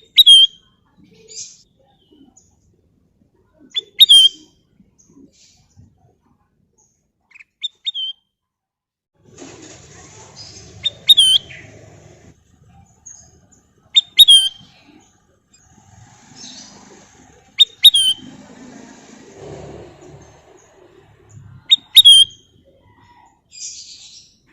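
Kutilang emas bulbul calling: short, sharp whistled notes, each with a quick downward hook, repeated every three to four seconds. A faint low background murmur runs through the middle.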